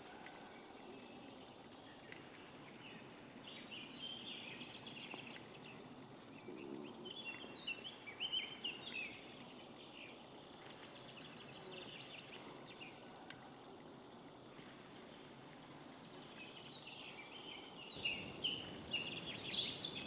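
Woodland ambience: small birds chirping and calling on and off over a faint steady background hiss, the calls getting louder and busier near the end.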